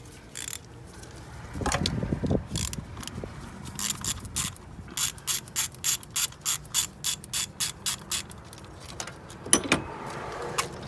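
Hand ratchet wrench clicking in a steady run of about three clicks a second as it turns a bolt, with a dull clunk of tool or metal about two seconds in.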